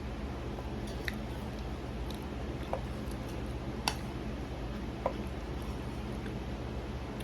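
Eating sounds: soft chewing with four light clicks, like a spoon against a bowl, over a steady room hum.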